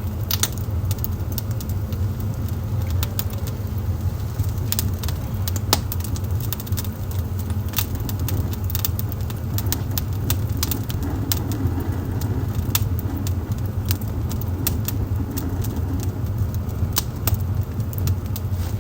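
Wood fire burning in a fireplace: a steady low rumble with many sharp crackles and pops at irregular intervals.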